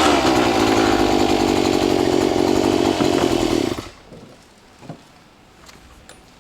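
Gas-powered post hole auger's small engine running at high speed, then cutting off suddenly a little under four seconds in.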